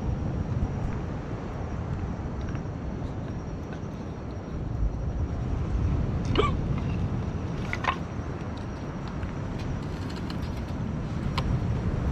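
A campfire burning, with a few sharp crackles and pops over a steady low rumble.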